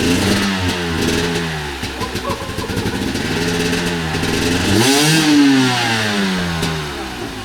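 Dirt bike engine revving under load on an off-road climb: the revs hold, drop about two seconds in, then climb to a loud peak about five seconds in and fall away again.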